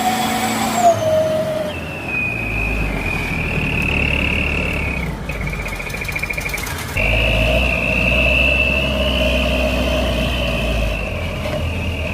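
Heavy vehicle engine working, a low rumble under a steady high whine that briefly dips and flutters midway, then comes back.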